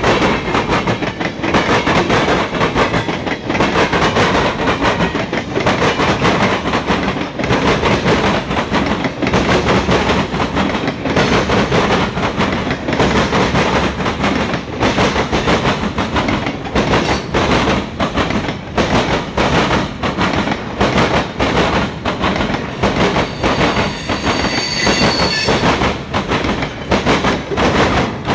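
Freight train cars rolling past: hoppers, a tank car and autoracks, with the wheels clacking in a steady stream of clicks over the track. A brief high wheel squeal comes in a few seconds before the end.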